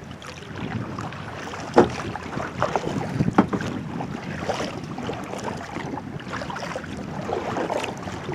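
Kayak paddling: paddle blades splashing and dripping water, with a few sharp splashes or knocks, the loudest about two seconds in, over steady wind noise on the microphone.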